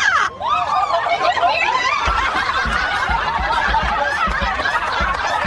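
Several people laughing at once in a long, steady stretch of chuckling and snickering. Irregular low thumps join in from about two seconds in.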